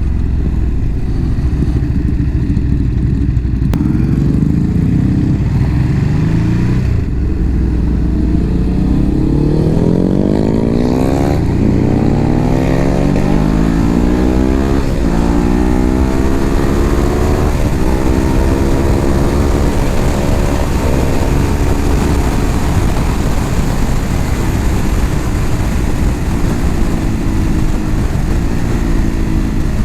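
Motorcycle engine accelerating, its pitch climbing through several gear changes, then holding steady at a cruise, with wind rushing over the helmet microphone.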